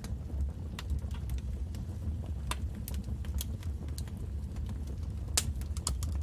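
Wood fire crackling in a fireplace: irregular sharp pops and snaps over a steady low rumble of the flames, with the loudest pop about five seconds in.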